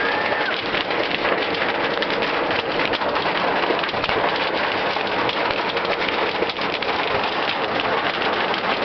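Hail pelting a car's body and glass in a dense, steady clatter of countless small hits.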